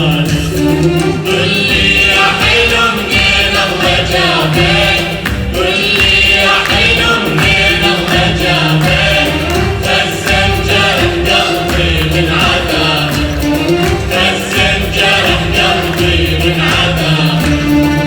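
Choir singing an Iraqi heritage song with instrumental accompaniment and steady hand percussion.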